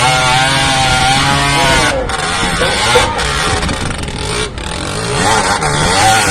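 Off-road racing engines running and being revved, the pitch rising and falling repeatedly over a loud steady roar.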